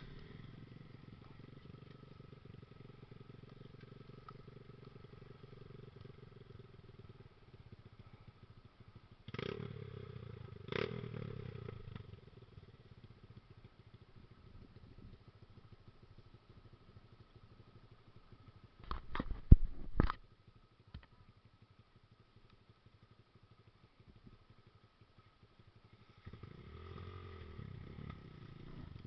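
Trail motorcycle engine running at low revs, with a louder spell about nine seconds in. A few sharp knocks near the middle are the loudest sound, followed by a lull before the engine is heard again near the end.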